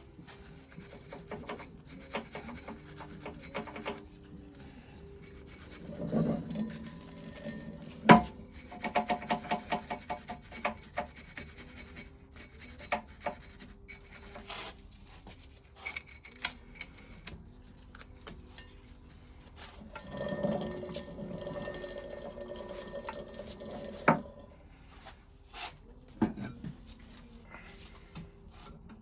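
Metal engine parts being worked by hand during dismantling: scraping and rubbing of metal on metal, a sharp knock about eight seconds in followed by a quick run of light taps, and two more single knocks near the end, as a taper pin and cam are worked free.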